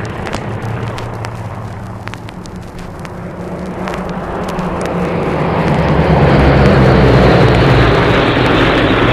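Military aircraft engines on an old vinyl record, easing off and then building to a loud pass about six seconds in. Record surface crackle and pops throughout.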